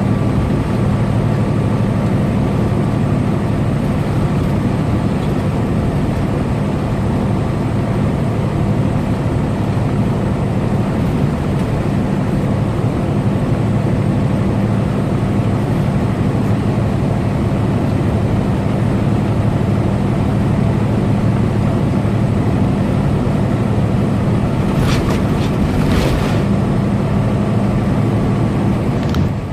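Semi truck cruising at highway speed, heard from inside the cab: a steady engine drone over road and tyre noise. A few short clicks or rattles come near the end.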